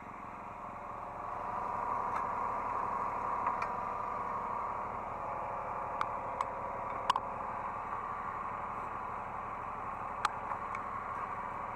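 Hydraulic excavator's engine and hydraulics running, heard from the operator's seat, with a steady whine that grows louder about a second or two in as the machine works. A few sharp clicks or knocks come in the second half.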